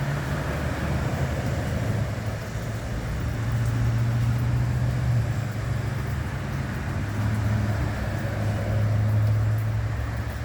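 A motor vehicle's engine running with a low hum that shifts up and down in pitch a few times, over a steady hiss.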